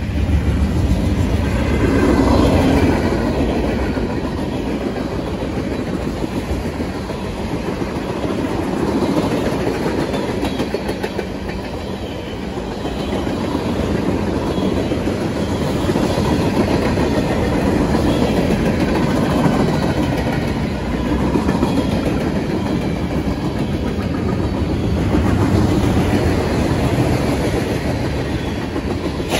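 Freight train cars rolling steadily past, a mix of gondolas and a boxcar followed by a long string of tank cars, their steel wheels clacking over the rail joints.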